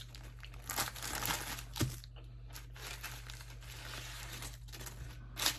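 Paper food wrapping crinkling and rustling as it is handled, with a few sharp crackles.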